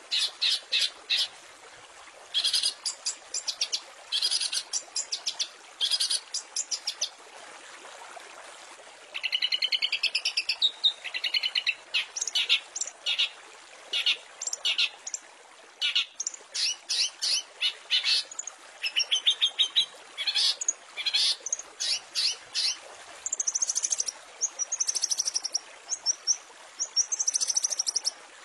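Long-tailed shrike singing a fast, varied song: runs of short sharp chattering notes in quick bursts, some warbled sweeping phrases, and short whistled notes near the end, over a faint steady hiss.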